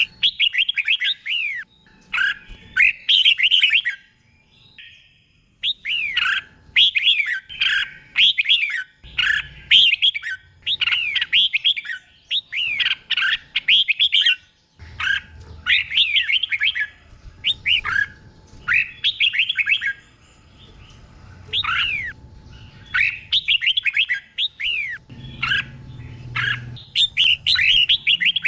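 Red-whiskered bulbul singing: phrase after phrase of quick, bubbly whistled notes sweeping up and down, each phrase a second or two long with short pauses between.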